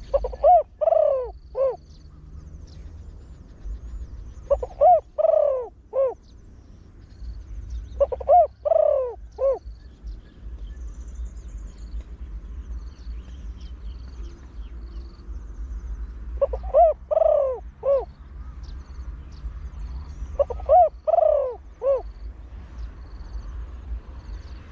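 Deep-voiced trained male spotted dove cooing in five phrases a few seconds apart, each a short run of three or four coos lasting about a second and a half. Faint high chirps of small birds sound in the background.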